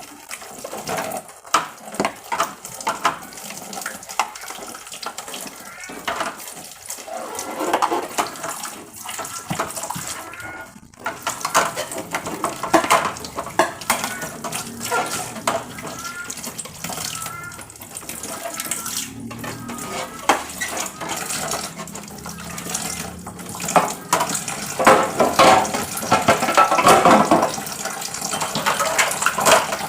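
Water running from a tap into a sink, with irregular clinks and knocks of dishes or containers being washed.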